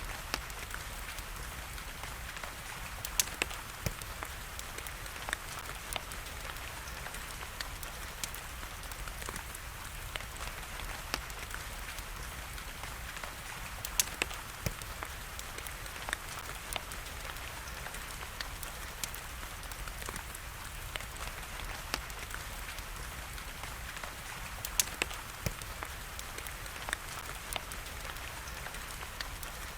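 Steady rain hiss with scattered sharp crackles and pops of a burning wood fire, a handful of louder pops standing out.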